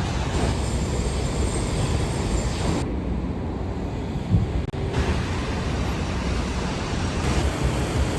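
Steady rumbling background noise, with its high hiss dropping out abruptly for about two seconds near the middle.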